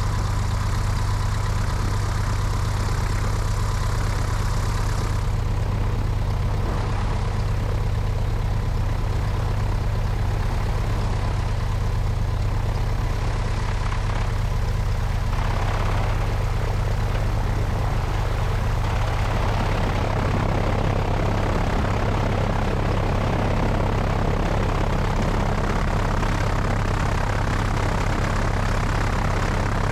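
Cessna 172's piston engine and propeller running steadily, heard from the wing with wind noise over the microphone. The rushing noise grows fuller about two-thirds of the way through while the engine's low hum stays even.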